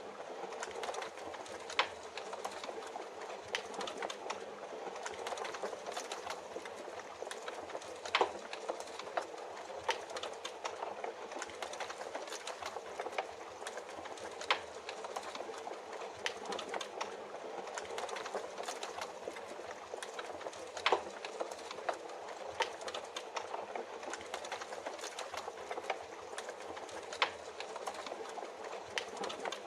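Fireplace crackling, with frequent irregular sharp pops over a steady hiss of rain.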